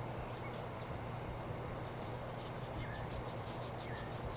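Steady low hum over background hiss, with a few faint short high chirps and light ticking.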